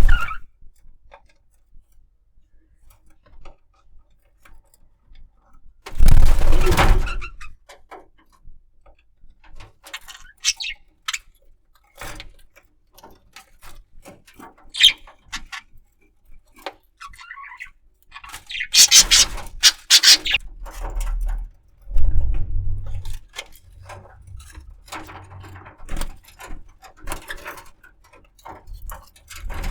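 Budgerigar moving about on a rope perch among flowers: irregular rustling, scraping and small clicks, with a few short high chirps. Louder bursts of rustling come about six seconds in and again around nineteen to twenty-one seconds.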